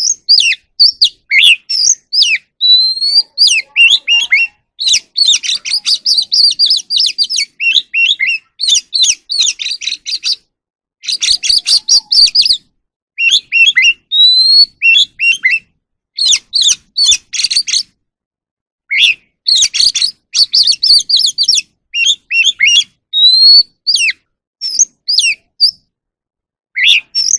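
Oriental magpie-robin singing: a varied, stop-start run of clear whistles, slurred notes and fast chattering trills, broken by pauses of about a second.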